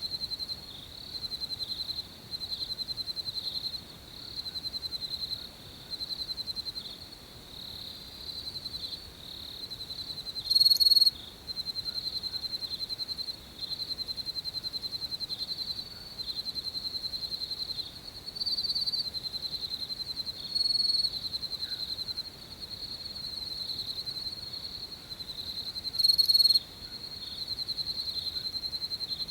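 Cricket chirping: a high, rapid pulsing trill repeated in phrases of about two seconds with short gaps between them. It comes much louder about eleven seconds in and again near the end.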